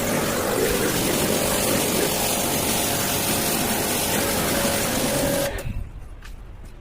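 Pressure-washer pump running while its jet sprays water onto an air conditioner during cleaning, a steady hiss over a motor hum, cutting off about five and a half seconds in.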